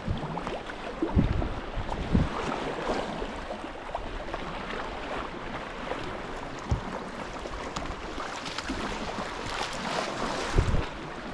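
Sea kayak on the move: water splashing and lapping around the hull and paddles. Wind gusts thump on the microphone a few times, loudest near the end.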